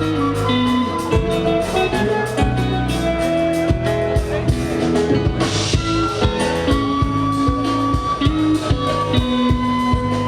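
Live band playing: a drum kit keeps a steady beat under guitar and held melody notes, with a cymbal crash about halfway through.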